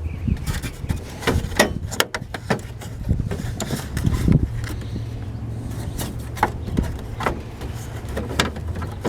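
Irregular sharp clicks and knocks of hand work on a car's engine bay, over a steady low hum.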